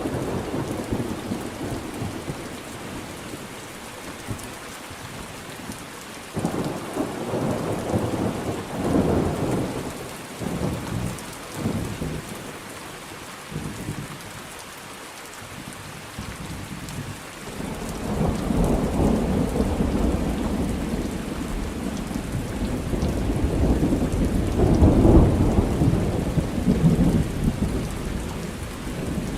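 Thunderstorm: steady rain with rolling thunder. A rumble fades over the first few seconds, another rolls through from about six to thirteen seconds in, and a long, louder one builds from about eighteen seconds in and peaks near twenty-five seconds.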